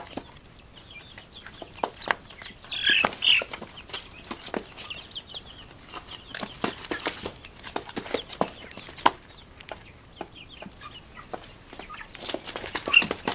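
Young Cornish Rock cross meat chickens feeding in a frenzy: a steady scatter of sharp taps and clicks from beaks pecking, with short high clucks and peeps, busiest about three seconds in and near the end.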